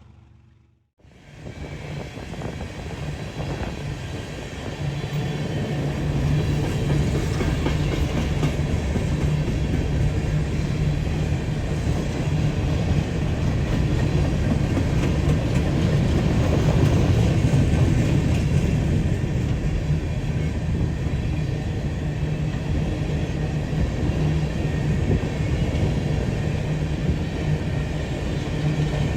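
Freight train moving on the track close by, a steady low rumble that builds over the first few seconds and then holds.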